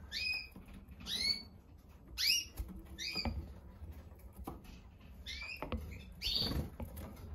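Canaries in their cages giving short chirping call notes, each sweeping up and levelling off, about six or seven of them at roughly one a second, with faint taps of birds moving about between calls.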